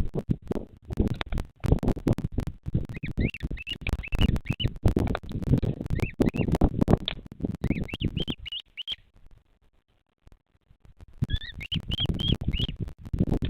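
Bird chirping in short runs of high, rising-and-falling calls over dense crackling and thumping on the nest-camera microphone. Everything drops out for about a second and a half shortly after the middle.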